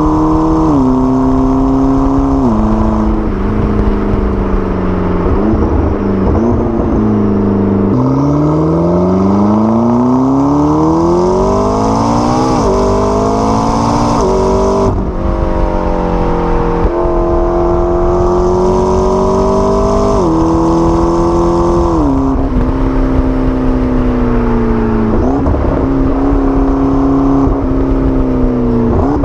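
McLaren 12C's twin-turbo 3.8-litre V8 running under way, its pitch falling in several steps, then climbing steadily for several seconds of acceleration before dropping sharply at a gearshift about halfway through, then easing off again.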